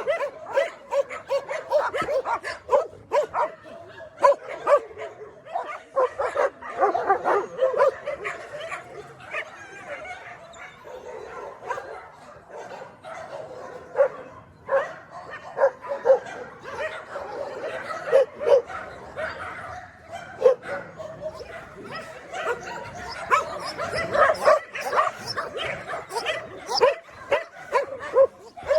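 Many dogs barking and yipping over one another, short barks coming in quick succession throughout.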